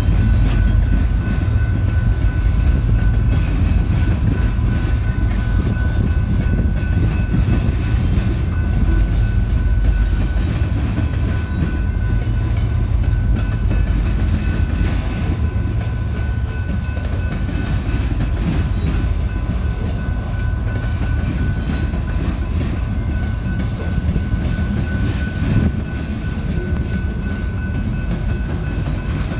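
Freight cars of a slow BNSF manifest train rolling past at a grade crossing: a continuous heavy rumble of steel wheels with the clickety-clack of wheels over rail joints. A steady high-pitched tone sits over it throughout.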